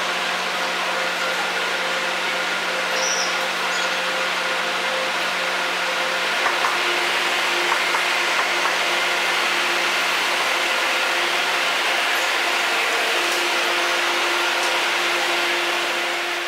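Taiwan Railways train running: a steady rushing noise with several constant motor or engine tones, and a few light clicks about halfway through, sped up to double speed.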